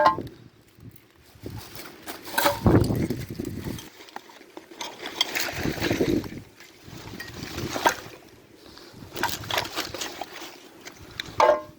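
Rummaging through scrap and junk: irregular knocks, scrapes and rustling, with a short metallic clink at the start and another near the end.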